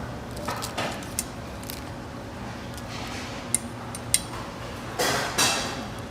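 Tableware clinking: a few sharp clicks and clinks of utensils against dishes, with two short rushing noises about five seconds in.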